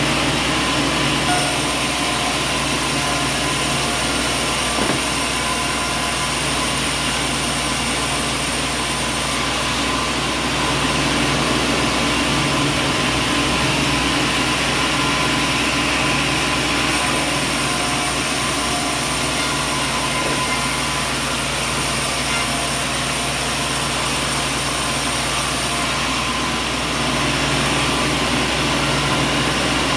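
Sawmill machinery running steadily, a continuous mechanical drone; the hiss in the upper range steps louder and softer a few times.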